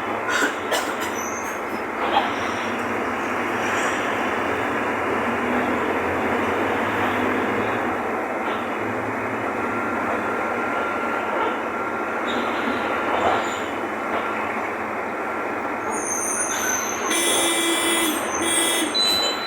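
Mercedes-Benz OF-1519 BlueTec 5 bus running on the road, a steady engine and road noise heard from inside the cabin. A few clicks come about a second in, and high squeaks and rattles come in the last few seconds.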